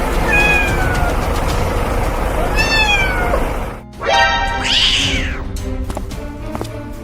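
A cat meowing about three times, each meow falling in pitch, over background music.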